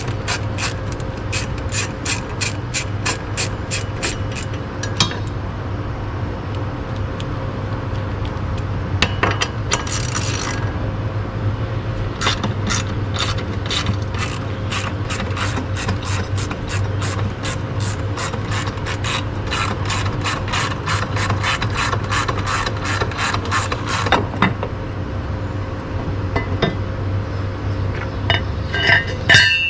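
Socket ratchet clicking in quick runs of about four clicks a second, with pauses between runs, as the 12mm bolts of the jet ski's intake grate are worked loose. A steady low hum runs underneath.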